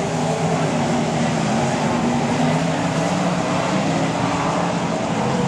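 Several sprint car engines running together, heard as a steady loud drone of overlapping engine tones that waver in pitch.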